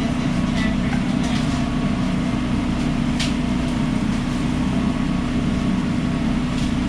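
Steady loud hum of a food truck's running equipment, with a few faint kitchen clicks and clatter; the sharpest click comes about three seconds in.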